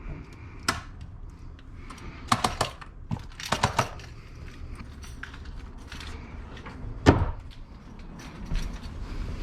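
Several sharp knocks and clicks, in small clusters, the loudest about seven seconds in, over a low steady rumble.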